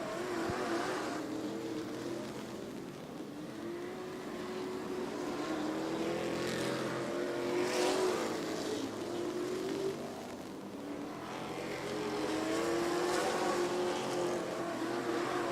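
A field of race trucks running laps on a short oval track, their engines rising and falling in pitch as they go by. The engine sound swells about halfway through and again near the end.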